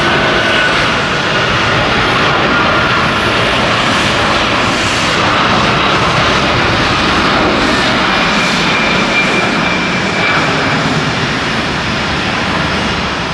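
Jet airliner's engines at takeoff power: a loud, steady rush of engine noise with faint thin whining tones over it.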